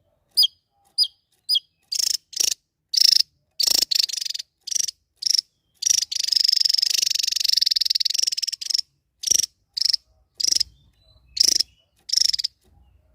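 Small songbird singing in the sharp, rapid 'nembak' (shooting) style: a string of short, high, piercing chirps, a long fast buzzy trill lasting about three seconds midway, then more chirps.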